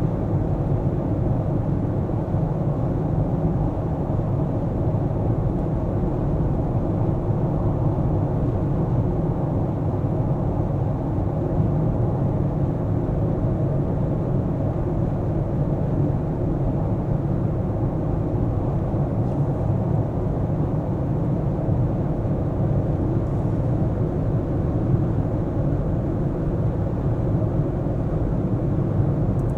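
A car driving steadily: an even, low rumble of tyre and engine noise with no sudden changes.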